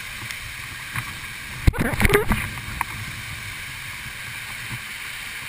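Steady rushing noise of a waterfall, with a short cluster of knocks and low rumbles about two seconds in.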